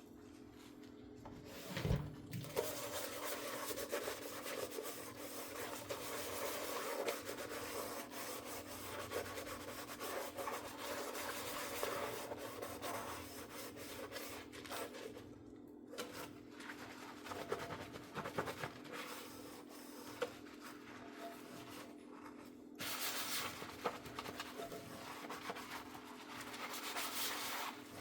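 Dishes being scrubbed by hand with a sponge: a continuous rubbing scrape, with a knock about two seconds in and louder stretches of scrubbing near the end. A steady low hum runs underneath.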